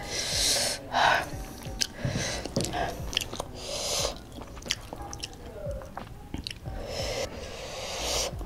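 Close-up eating sounds of rice and spicy squid being chewed, with small wet clicks and smacks of the mouth. Several loud, breathy hisses of about half a second come between mouthfuls, the loudest about a second in.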